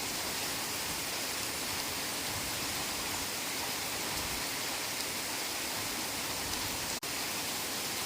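Heavy rain falling steadily in a forest, an even hiss with no single drops standing out. The sound drops out for an instant about seven seconds in.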